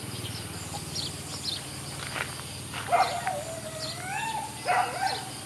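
A dog whining: a long, high cry about three seconds in that wavers and slides in pitch, then a shorter cry near the end.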